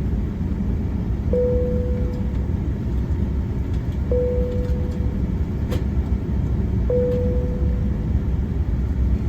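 Steady low rumble in the cabin of an Airbus A380 before takeoff. A short, fading tone of middle pitch repeats about every three seconds, and there is a faint click near the middle.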